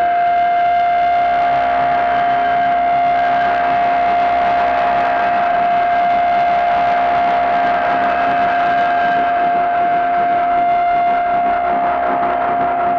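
Harsh noise from a Gamechanger Audio Light Pedal in the feedback loop of a Fairfield Circuitry Hors D'ouvres: a loud, steady feedback tone held at one pitch over a dense distorted haze.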